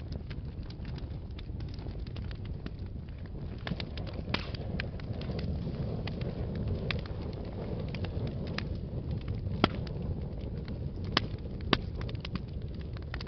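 Wood fire in a fireplace crackling: a steady low rumble of flames with irregular snaps and pops throughout. A few sharper, louder pops come in the second half.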